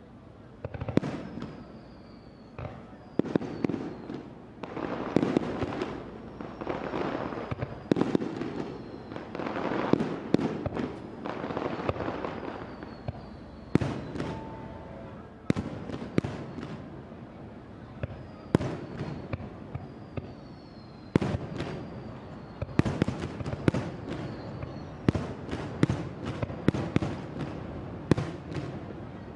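Aerial fireworks shells bursting one after another, each bang followed by a rolling echo, with thin falling whistles between them. From about two-thirds of the way in, the bursts come in dense clusters of rapid cracks.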